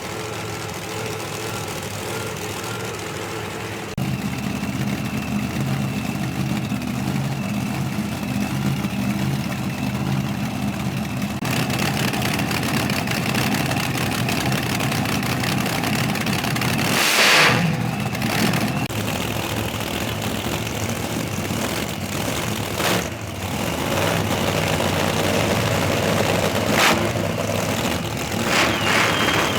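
Drag car engine fired up on nitro and running, a steady loud note that steps up a few seconds in, with short revs about midway and again a few seconds later.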